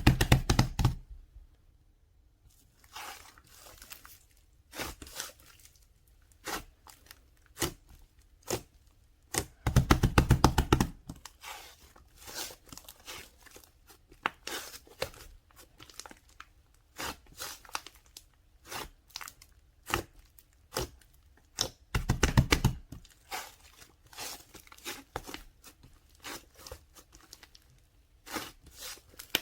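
Close-up handling of paper and plastic: irregular crinkling, crackling and tearing, with denser runs of crackle twice, about ten and twenty-two seconds in.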